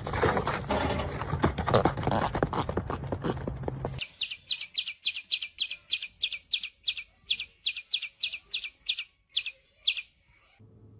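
A bird chirping over and over, short high chirps about three a second for some six seconds. Before it, about four seconds of loud clattering and knocking that stops abruptly.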